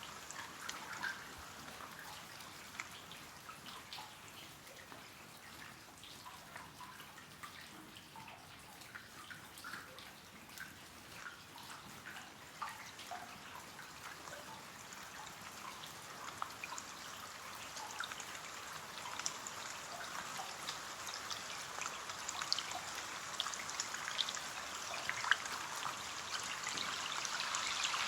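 Rain on a window pane: scattered drops tapping over a soft steady hiss, growing gradually louder over the second half.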